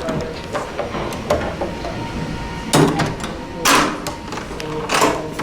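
Heavy door on a Sargent door closer with a Sargent mortise lock closing: three sharp clunks in the second half, about a second apart, as the door and its latch shut.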